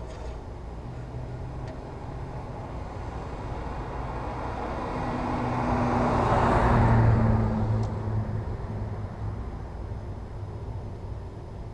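A vehicle passing by, swelling to a peak about six to seven seconds in and fading again, over a steady low rumble.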